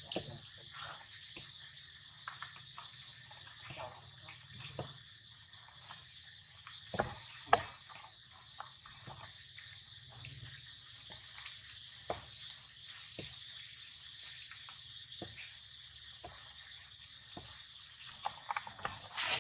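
A bird calling repeatedly: a short high note followed by a quick rising chirp, every couple of seconds, over scattered faint taps and rustles.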